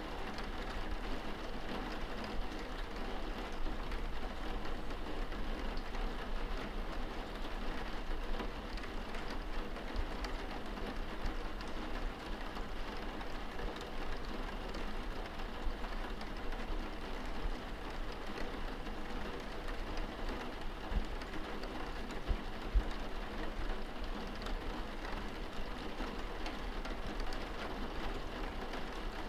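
Steady rain on window glass, heard from inside the room: an even wash with scattered drops ticking on the pane.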